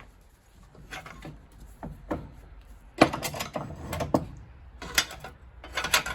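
Hand tools clanking and scraping on metal boiler parts during dismantling: irregular knocks and rattles, the loudest about three seconds in.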